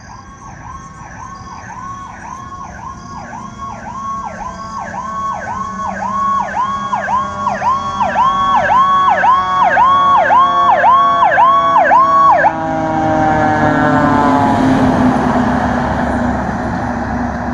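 Fire truck approaching with an electronic siren in a fast yelp, about one and a half sweeps a second, growing louder, over a slower siren tone winding steadily down in pitch. The yelp cuts off about two-thirds of the way through, and a loud rush of noise follows as the truck goes by.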